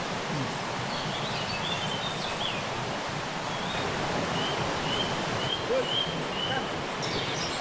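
Steady rush of river water, with a bird chirping above it in short high notes, including a quick run of about five evenly spaced notes midway.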